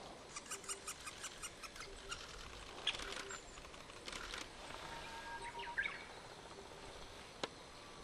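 Wild birds calling in woodland. A fast run of short high notes, about eight a second, fills the first two seconds, followed by scattered chirps and short whistles. A single sharp tap comes near the end.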